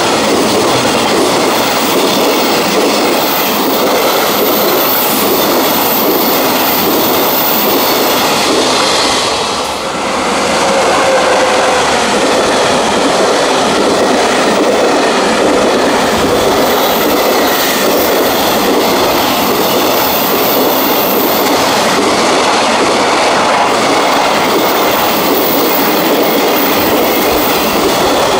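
Freight train running past close by, its wagons rattling and clacking steadily over the rails, with a brief lull about ten seconds in.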